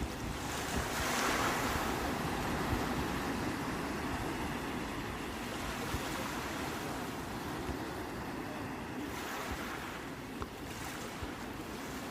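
Sea waves breaking and washing onto the shore in a steady rushing wash. One wave surges about a second in and another near the end.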